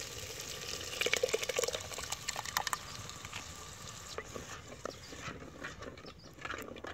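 Oil-based onion and tomato tadka sizzling in a clay handi, with a few sharp knocks of the ladle against the pot in the first few seconds. Beaten yogurt is poured in and stirred, and the sizzling dies down once the yogurt is in.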